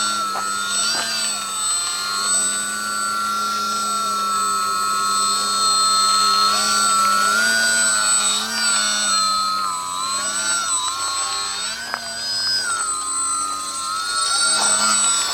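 Electric motor and propeller of a DW Foamies Juka 40 foam RC airplane in flight, a steady whine whose pitch rises and dips repeatedly with throttle and passes.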